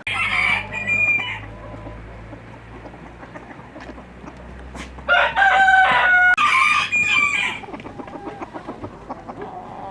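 Chickens calling: a loud call right at the start, then a rooster crowing from about five seconds in, over background clucking.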